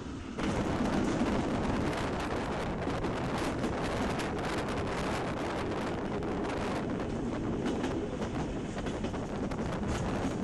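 Rhaetian Railway passenger train running over the rails through station trackwork: a steady rumble with a rapid clatter of wheel clicks, and wind buffeting the microphone at the open window.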